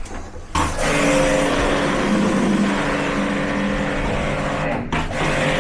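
A power tool's motor running steadily under load, starting about half a second in and cutting out briefly near the end before running on.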